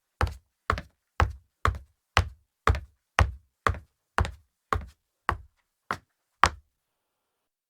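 Footsteps of hard leather-soled sandals on a softwood-type hardwood floor, walking at a moderate pace with firm, even steps about two a second, stopping about six and a half seconds in.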